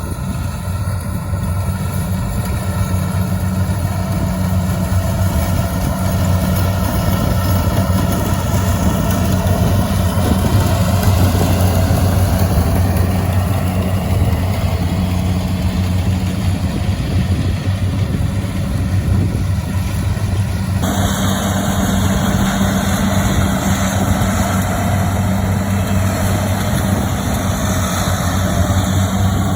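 An engine running steadily at a constant speed, with a low, even hum. About two-thirds of the way through the upper part of the sound changes abruptly while the engine note carries on.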